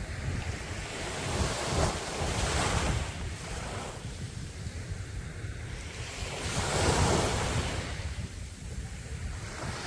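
Sea waves breaking on a sandy beach, two swells of surf rising and falling, the second and louder one about seven seconds in, over a steady low rumble of wind on the microphone.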